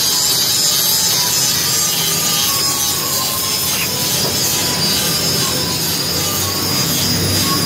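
Two-stroke motorcycle engine running steadily through a round expansion-chamber exhaust.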